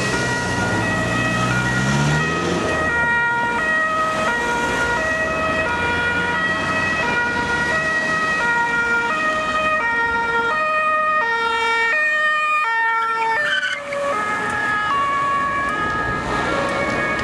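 German police car's two-tone siren (Martinshorn) sounding, alternating steadily between a high and a low pitch, as the car passes on an emergency run. In the first couple of seconds the car's engine revs up under acceleration.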